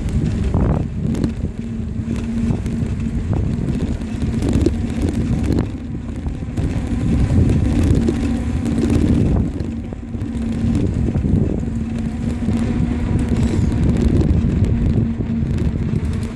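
Wind buffeting the microphone of a moving bicycle rider, a loud continuous rumble with a faint steady hum running through it.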